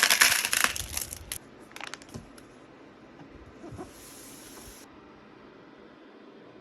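Crackling rustle with clicks, loudest in the first second and a half, then faint scattered clicks and a brief high hiss about four seconds in.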